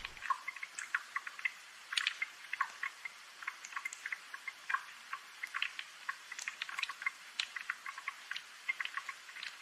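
Light rainfall: many small, irregular raindrop ticks over a soft hiss.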